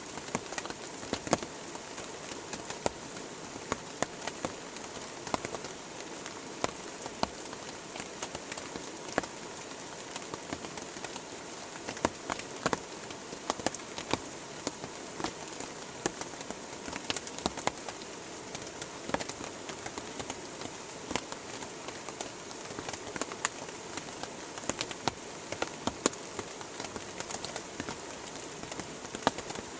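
Steady rain falling, with a constant hiss and frequent sharp taps of large drops landing at irregular intervals.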